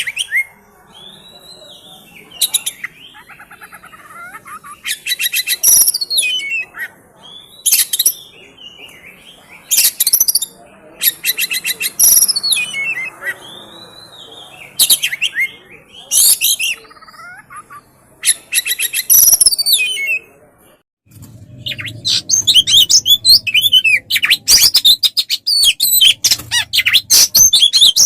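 Songbird song used as masteran for training oriental magpie-robins: short phrases of clear whistles and fast, harsh rattling trills, one every couple of seconds. About two-thirds of the way in it turns into a continuous, rapid warbling song over a faint low hum.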